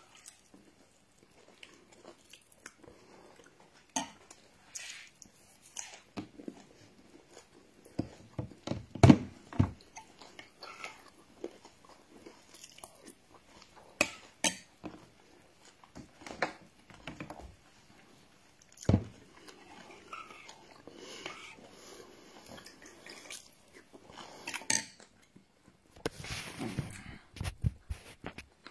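A person biting and chewing pieces of fresh coconut, with irregular crunches, the loudest about nine seconds in.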